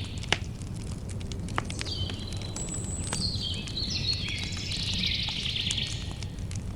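Campfire crackling with a steady low rumble and scattered sharp pops, the loudest pop just after the start. A songbird sings a short phrase about two seconds in, then a longer phrase of stepped, falling notes for about three seconds.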